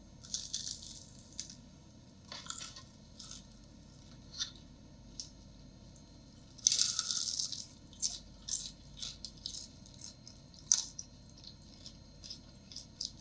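Crisp fried onion fritters crunching in a series of irregular crackles, with the longest, loudest crunch about seven seconds in.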